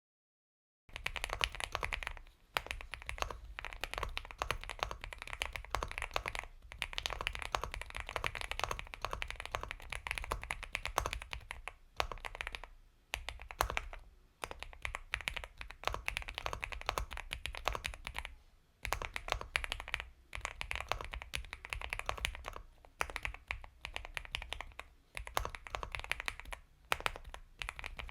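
Typing on an Epomaker x Feker Galaxy 80 mechanical keyboard with Gateron Milky Yellow Pro linear switches: soft, creamy keystrokes in a fast, continuous run. The typing starts about a second in out of dead silence and breaks off in a few brief pauses.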